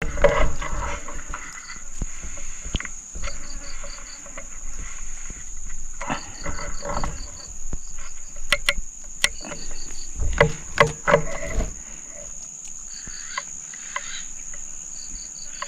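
A steady, high, unbroken drone from insects in the forest, with short runs of quick high pips every few seconds. Irregular rustling and a few sharp clicks come through over it.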